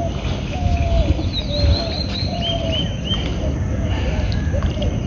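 Birds calling: a short, slightly falling call repeated over and over, joined about a second in by a quick series of high chirps, over a steady low rumble.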